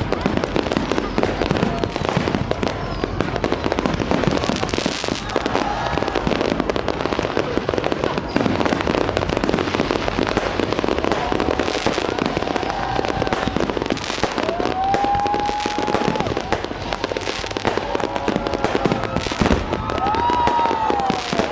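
Large fireworks display: a continuous barrage of bangs and crackling bursts, with a few pitched whines that rise and fall along the way.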